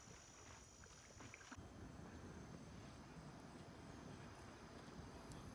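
Near silence: faint outdoor background, with a soft low rumble that sets in about a second and a half in.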